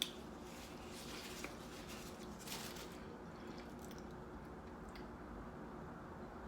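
Faint wet mouth sounds of eating soft fufu, with a few small clicks and squishes in the first few seconds, over a steady low background hum.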